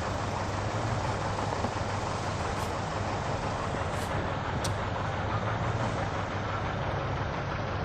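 Steady vehicle engine and road noise with a constant low hum, and a few faint ticks.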